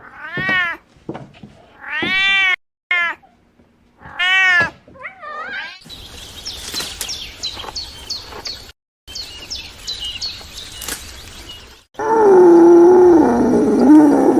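A cat meowing three times, each meow rising and falling in pitch. Then a run of many quick, high, falling chirps. Near the end comes a loud, low, wavering animal call, the loudest sound here.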